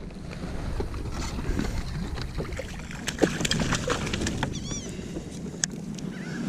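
Steady low rumble of wind on the microphone, with scattered small knocks and clicks and one short bird call a little past the middle.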